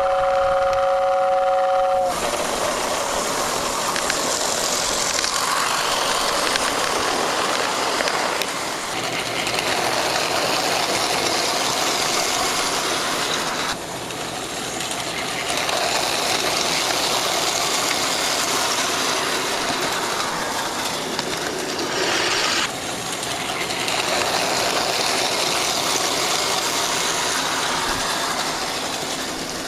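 Lionel GP9 O gauge model diesel locomotive sounding a steady two-note horn that stops about two seconds in. Then the model train runs along the track with a steady, noisy whir of motor and wheels on the rails, its level shifting a few times.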